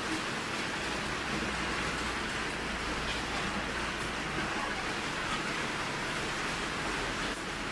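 Hard, steady rain falling on a loud tin roof and the street, an even hiss. A truck's engine adds a low rumble as it drives slowly past on the wet road, easing off about halfway through and returning near the end.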